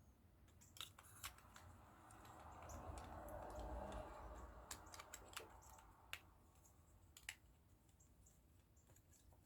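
Faint, scattered clicks and taps of small plastic model-kit parts being handled and fitted, with a soft rustle that swells and fades in the middle.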